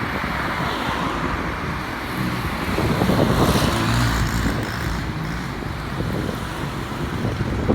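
Road traffic noise: motor vehicles running along a street, with wind on the microphone. It swells about three seconds in, as if a vehicle passes close.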